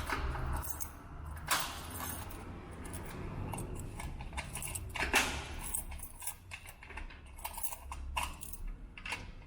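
Keys jangling, with a run of small clicks and rattles, sharpest about a second and a half and five seconds in, over low handling rumble.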